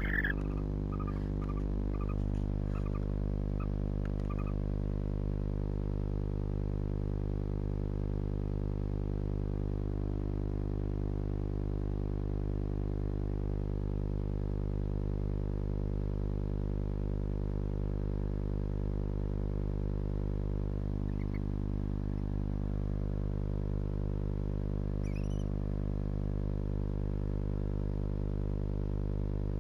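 A steady electrical-sounding hum, with a few faint short chirps in the first few seconds and a brief faint rising squeak about 25 seconds in.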